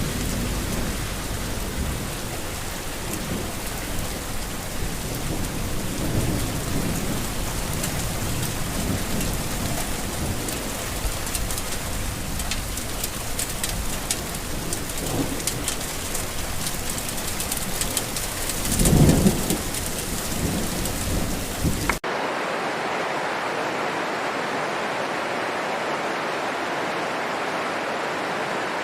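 Heavy rain pattering with low rumbles of thunder, the loudest rumble about 19 seconds in. About 22 seconds in it cuts off suddenly to a steady, even rushing hiss with no rumble.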